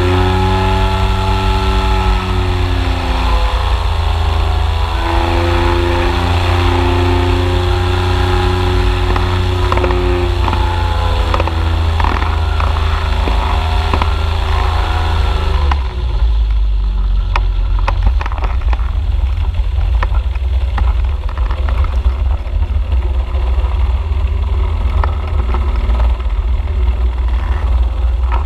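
Engine of a Polaris FIB flying inflatable boat running, its pitch rising and falling for the first half. About halfway through the engine tone fades into a heavy low rumble with scattered clicks.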